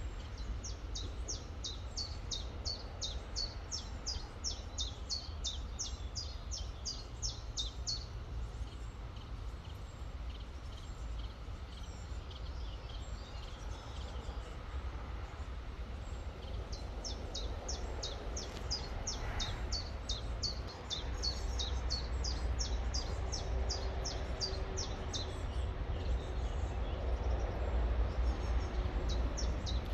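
A songbird singing long runs of fast, sharp, high repeated notes, one at the start and another from just past halfway. Under the song is a steady rushing haze and a low rumble that grows louder about two-thirds of the way through.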